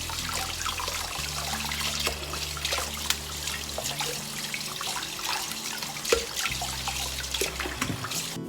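Water running from a tap into a sink and splashing, with small knocks and clatter throughout.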